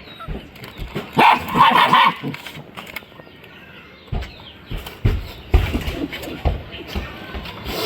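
Puppies squabbling over food: a couple of short barks about a second in, then scattered knocks and thumps.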